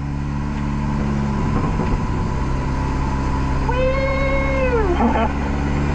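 Nissan S13's SR20DET engine idling steadily. About four seconds in, a long, high voice-like call holds its pitch for just over a second and then drops at the end.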